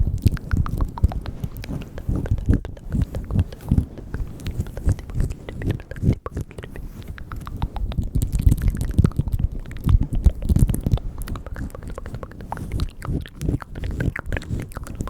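Close-miked mouth sounds: a dense, irregular run of quick wet clicks and smacks over low rumbling.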